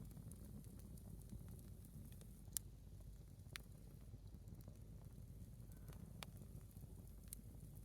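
A single firewood log burning quietly in an open fire: a faint low rumble with a few sharp crackles and pops, the loudest about two and a half seconds in.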